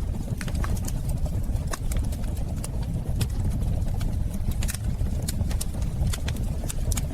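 Wood fire burning in a fireplace: a steady low roar with sharp, irregular crackles and pops.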